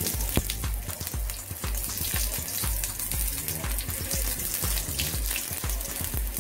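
Eggplant slices frying in hot oil in a steel pan: a steady sizzle full of crackling pops as more slices go into the oil.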